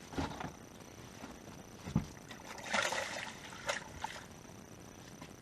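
A dull thump against a small fishing boat about two seconds in, then a short splash of water and a knock.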